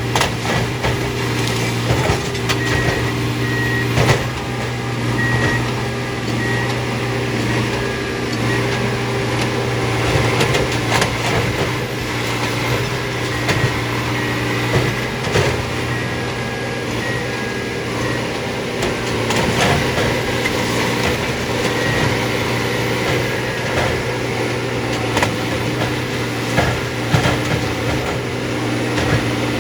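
Diesel engines of railroad track-maintenance machines running steadily, with frequent sharp metal clanks and knocks from the tie work. A high repeating beep sounds for the first eight seconds or so.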